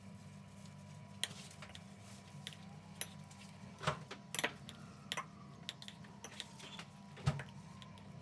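Kitchenware being handled: scattered light clicks and clinks, about half a dozen, over a steady low hum.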